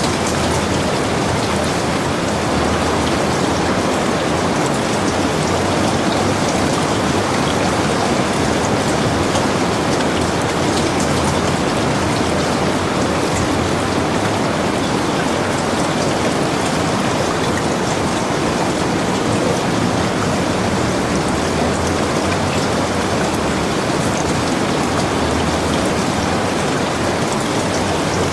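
Heavy rain falling steadily, an even hiss with many small drops ticking on a surface.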